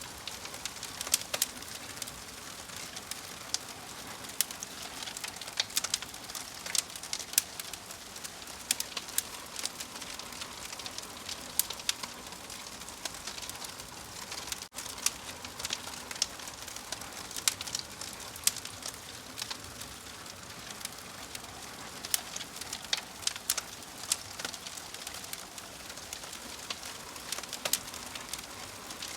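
Wood fire crackling: a steady hiss with frequent irregular sharp pops and snaps, broken by a split-second dropout about halfway through.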